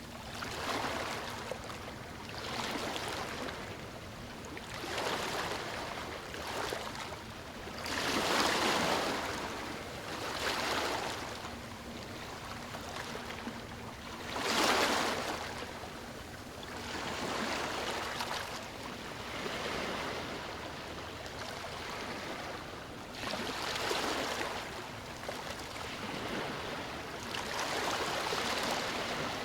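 Sea waves surging and washing in, swelling and ebbing every two to three seconds, with the strongest surges about 8 and 15 seconds in.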